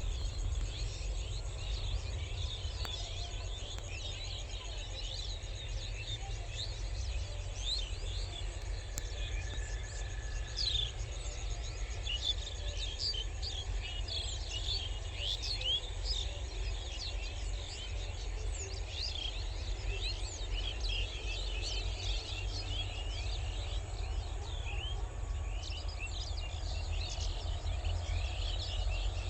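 Many small birds chirping and calling at once, a dense, continuous chorus of short rapid chirps, over a steady low rumble.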